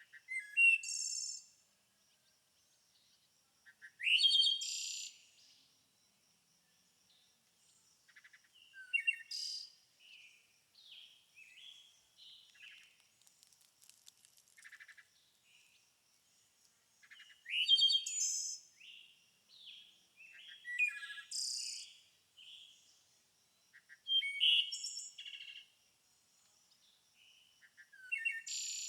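A songbird singing short loud phrases every few seconds, each opening with a rising note and ending in a high burst, with softer chirps in between. A faint, steady, high pulsing tone runs underneath.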